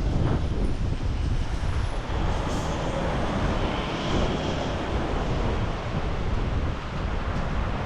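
Strong storm wind buffeting the microphone: a loud, uneven low rumble of gusts with no steady tone.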